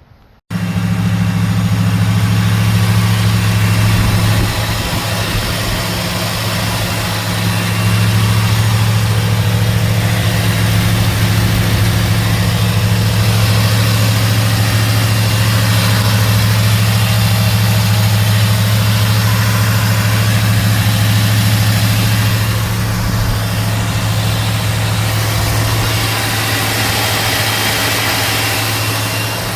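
Built 350 cubic-inch small-block V8 with a mild cam, breathing through dual exhaust with Magnaflow mufflers, idling steadily. It starts suddenly about half a second in.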